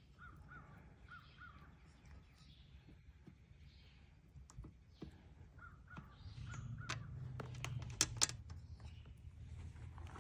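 A bird calling faintly in short repeated notes, one run at the start and another about six seconds in, with two sharp clicks about eight seconds in.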